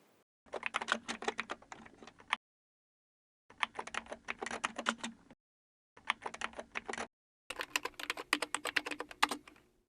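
Typing on a computer keyboard: four bursts of quick key clicks, separated by short silences.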